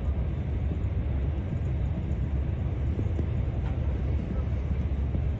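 Steady low rumble of a high-speed electric train running at speed, heard from inside the passenger cabin.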